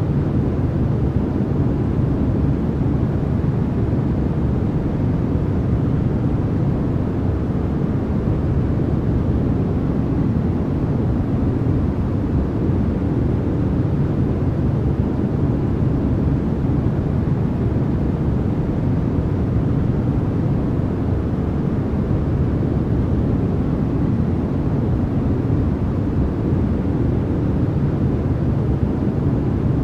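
Continuous synthetic white noise for sleep, a steady, even rush that is deep and heavy in the low end rather than hissy, with no change.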